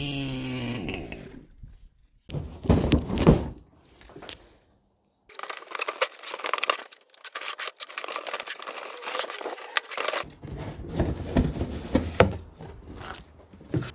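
Packaging being handled and opened, with crinkling and tearing in several spells. An engine note cuts off in the first second and a half.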